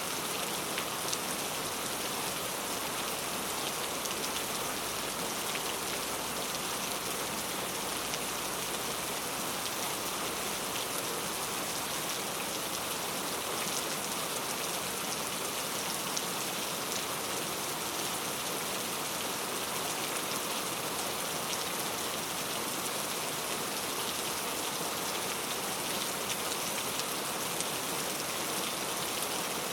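Steady rainfall, an even hiss of rain on a surface with faint scattered drop ticks.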